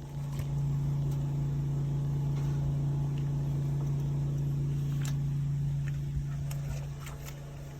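High-pressure sewer water jetter running steadily, a constant low hum, while its jet hose works to cut through a grease-clogged sewer line. It gets somewhat quieter about six and a half seconds in.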